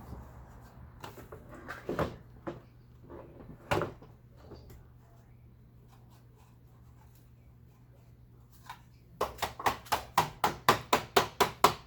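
Vacuum cleaner parts being handled: a few scattered knocks, then near the end a quick regular run of sharp taps, about five a second, over a faint steady low hum.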